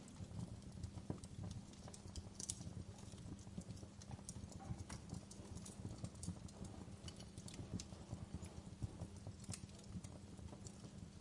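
Wood fire crackling in a fireplace: irregular pops and snaps over a low, steady rumble of burning.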